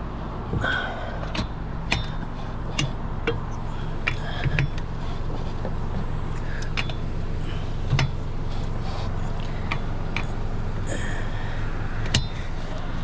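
A steady low vehicle hum, with a dozen or so sharp clicks and knocks scattered through it, typical of tools and parts being handled at the start of a roadside tire change.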